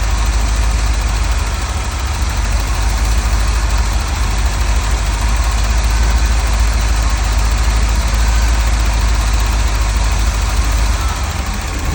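Cross-Fire Injection V8 idling steadily, with the injectors' hammering noise, which the owner takes to be normal. The engine is shaking at idle, which he suspects is a misfire.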